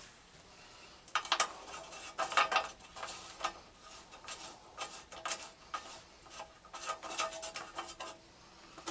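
Metal parts and hand tools clinking and scraping in irregular bursts during hands-on repair work on a garden tractor.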